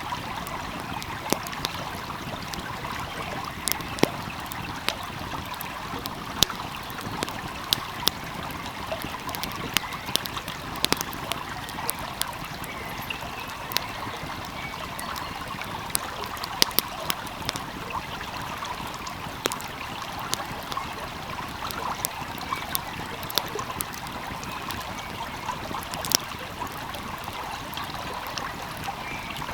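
A flowing stream's steady rushing and trickling, with the sharp, irregular pops and crackles of a wood fire burning close by, a few each second at uneven intervals.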